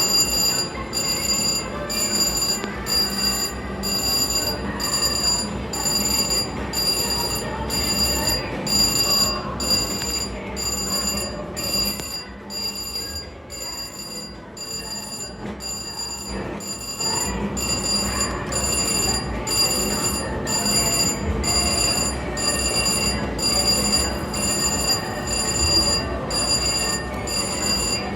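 Slot machine win or bonus ringing: a high bell-like chime pulsing evenly, a little more than once a second, over casino floor background noise, dipping briefly in the middle.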